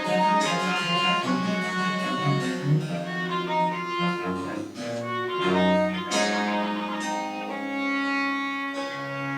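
Live French Baroque chamber music: a melody over a moving bowed bass line, played note by note without pause.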